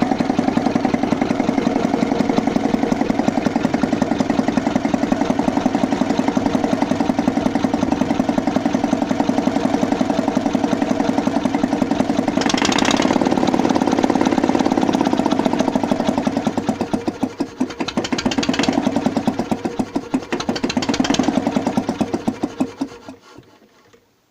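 1943 Victor 12 hp four-stroke boxer diesel engine running with steady, even firing pulses. About halfway there is a burst of hissing, and then the engine falters and dies away to a stop near the end.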